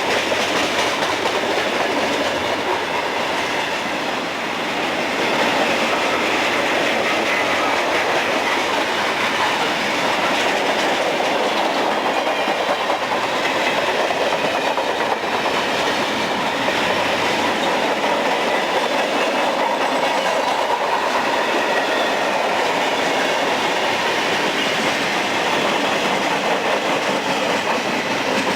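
Railroad cars rolling past steadily, their wheels clattering over the rail joints.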